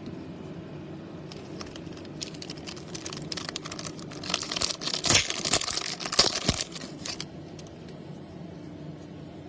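Foil trading-card pack wrapper being torn open and crinkled: a run of crackling and sharp rustles that builds up and is loudest a few seconds in, then stops, over a steady low room hum.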